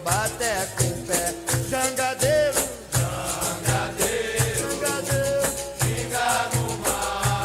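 Capoeira song played from a recording: voices singing over berimbau, a caxixi-type rattle and percussion keeping a steady beat of about two strokes a second.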